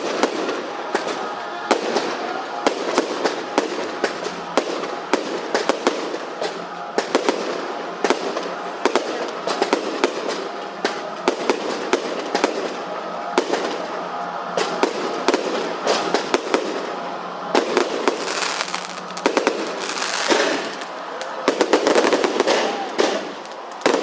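Fireworks display: a dense run of sharp bangs and crackles as the shells burst, with voices in the background.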